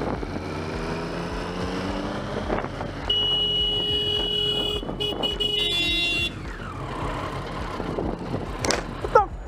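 Motorcycle running in traffic, then the motorcycle's horn sounding for about three seconds with a brief break partway, warning a car that has pulled out in front.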